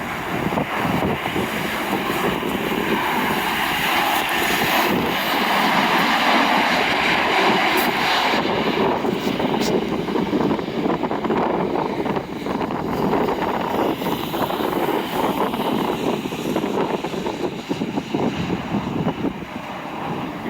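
Jet airliner's engines rushing past, with a steady loud noise. It is strongest and hissiest a few seconds in, then the high end fades as the aircraft moves away.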